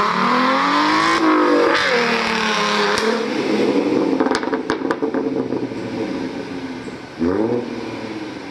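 Car engine revving: the revs climb, drop and climb again, then hold at a steady run with a few sharp clicks, and give one quick blip of throttle near the end.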